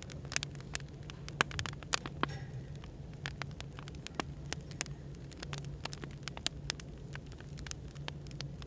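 Wood fire crackling with frequent irregular sharp pops, over a steady low hum of background noise.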